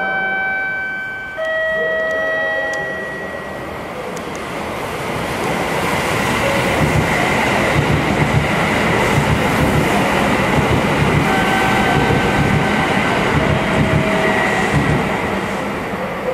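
Kintetsu limited-express electric train running through the station: a rumble that swells and holds for several seconds with a fast clatter of wheels over the rail joints, easing off near the end. A few held electronic tones that change pitch sound in the first seconds.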